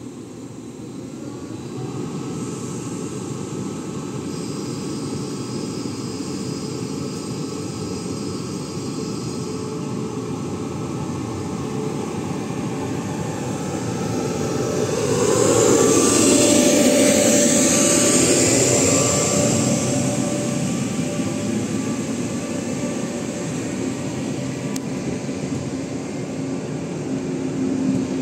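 A Taiwan Railways train passing through the station, its running noise building up, at its loudest about halfway through with a few steady whining tones that bend in pitch as it goes by, then fading.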